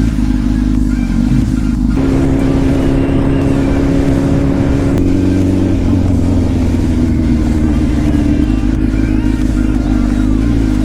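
2007 Kawasaki ZX-10R inline-four with a full Two Brothers exhaust, running loud and steady at a held speed while riding. Its pitch steps a little about two seconds in and again about five seconds in.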